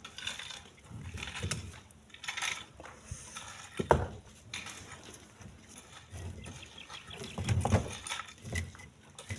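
Irregular knocks and thuds of split stone being lifted and dropped into a truck's bed; the sharpest hit comes about four seconds in, and a run of heavier hits comes near the end.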